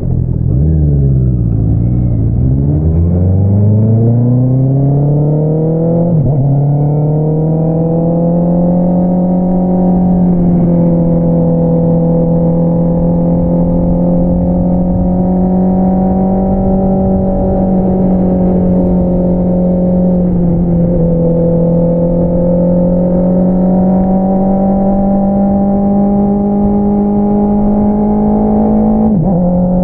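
Honda CBR650R's inline-four engine through an Akrapovič single-outlet exhaust while riding. The note drops for the first couple of seconds, climbs steadily as the bike accelerates, breaks at a gear change about six seconds in, then holds a steady cruising note with small rises and falls and a quick shift near the end.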